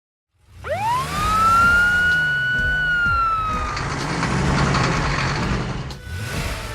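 A siren wail: one tone sweeps up quickly about half a second in, holds high, then slowly falls away by about four seconds, over a low rumble.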